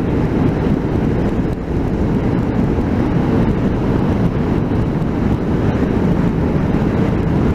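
Steady wind and road noise of a motorcycle at speed, picked up by a microphone fitted inside the rider's helmet, a dull, low rush with no clear engine note.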